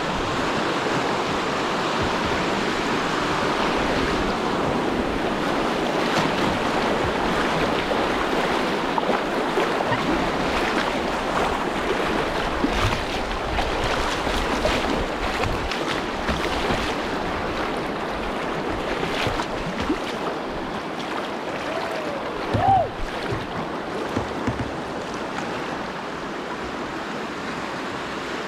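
Kings River water rushing steadily around a kayak, with some wind on the microphone. A brief high call about 22 seconds in.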